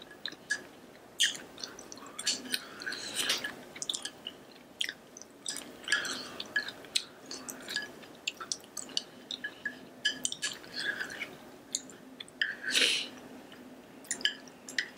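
A person chewing and eating food, with wet mouth sounds and irregular sharp smacks and clicks; one louder, longer smack about thirteen seconds in.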